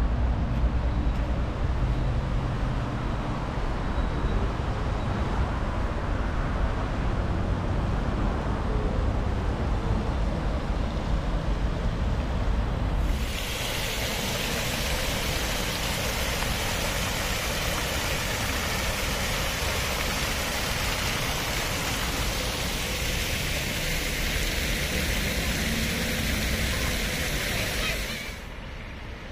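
Steady low rumble of a passenger train running, then about thirteen seconds in a sudden switch to a steady hissing rush with less rumble, which drops away abruptly near the end.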